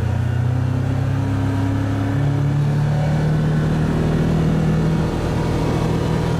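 The Ranger's engine running as it drives, heard from inside the cab, with its pitch stepping up about two seconds in as it speeds up.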